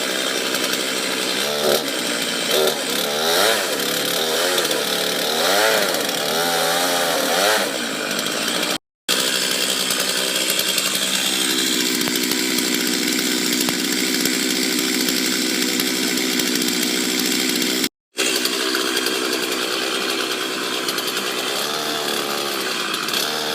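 Chainsaw cutting wood, its engine pitch rising and falling as it works. Steadier running follows, broken twice by short complete silences.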